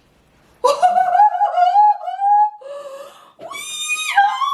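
A person's high-pitched wordless vocal squeals, sliding up and down in pitch for about two seconds, then after a short pause a held high note that steps down in pitch near the end.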